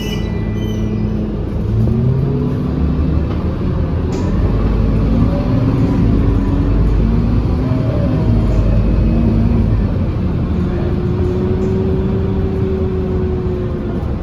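Scania K230UB bus diesel engine pulling away and accelerating: its pitch rises from about two seconds in, falls back and climbs again with each gear change, then settles into a steadier, higher drone near the end.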